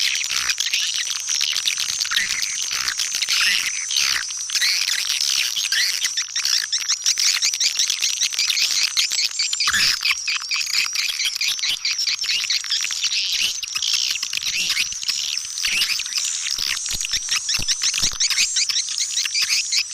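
Several swiftlets twittering and chirping without a break in a dense stream of rapid, high notes: a swiftlet calling sound of the kind played to draw swiftlets in.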